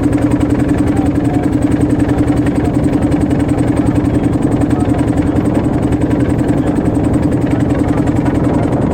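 Motorboat engine running steadily, a fast, even chugging that never changes pace.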